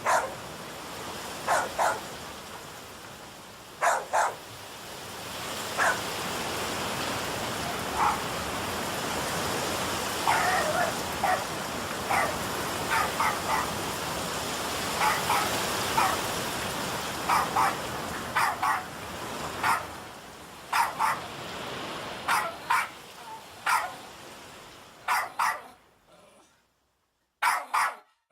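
Dogs barking in short, irregular bouts over the steady hiss of heavy rain. Near the end the rain cuts out suddenly, leaving a couple of barks on their own.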